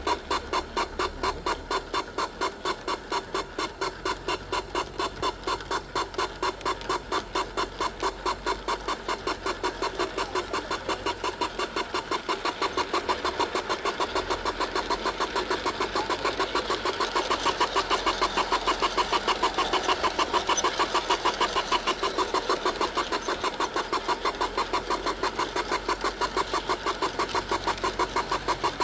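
Garden-scale model train running, heard from a camera riding on it: a steady rhythmic clacking at about three beats a second, growing a little louder about halfway through.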